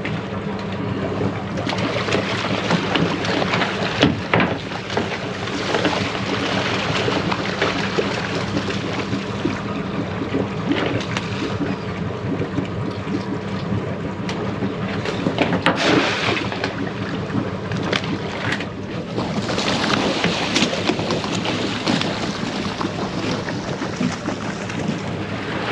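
Crab boat's engine running steadily, under wind and water noise, with a few sharp knocks scattered through.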